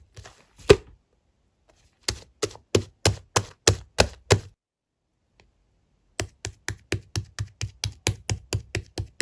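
Clear slime being pressed and poked, making sharp popping clicks: one about a second in, a run of about eight at roughly three a second, a pause of nearly two seconds, then a faster run at about four a second.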